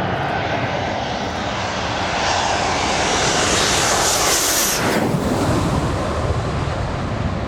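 Panavia Tornado GR4 jet on landing approach, its twin RB199 turbofans rising to a loud, high-pitched rushing hiss as it nears. Just before five seconds in the hiss cuts off sharply and the sound drops in pitch as the jet passes.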